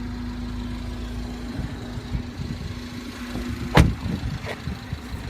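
A steady low hum, then irregular knocks and handling noises in the car, with one sharp, loud click a little before four seconds in and a smaller one about half a second later.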